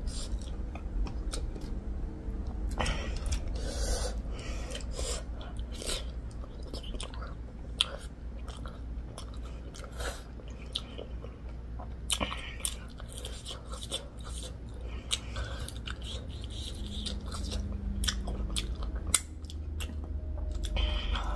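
A person chewing food close to the microphone, with many irregular wet smacks and clicks over a steady low hum.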